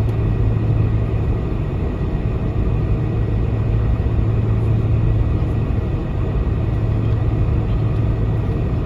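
Cabin noise inside a Boeing 747-400 taxiing: a steady rumble from the engines at idle thrust and the cabin air supply, with a strong low hum.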